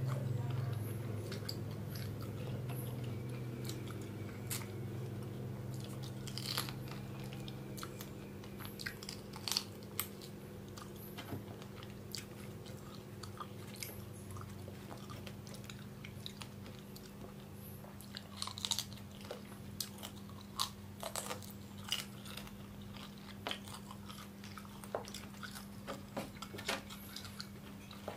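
Close-up crunching and chewing of cooked rhino beetles, their hard shells cracking in many short, irregular crunches over a low steady hum.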